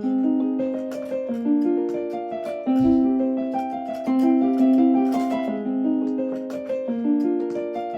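Train-approach melody on a station platform: a bright, piano-like electronic tune that starts abruptly and repeats a short phrase about every four seconds, announcing an arriving train.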